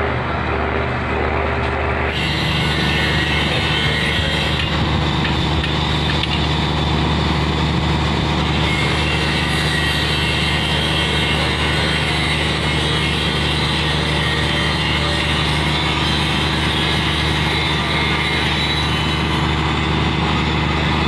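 An engine running steadily, with an even low hum and noise on top that grows brighter about two seconds in.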